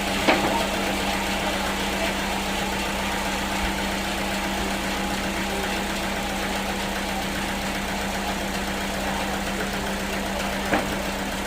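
Sawmill machinery running with a steady hum, interrupted by two sharp knocks, one just after the start and one near the end.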